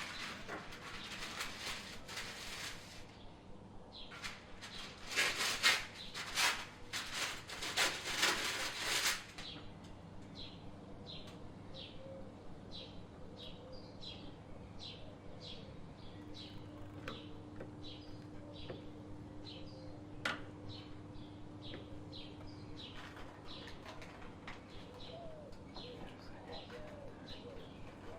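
Bursts of rustling noise for the first nine seconds. After that a small bird chirps over and over, about two short high chirps a second, with doves cooing.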